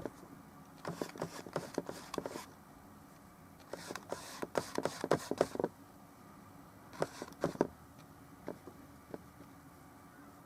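Paintbrush working oil paint on a small painting, in runs of quick scratchy strokes and dabs about a second or two long, with pauses and a few single taps between.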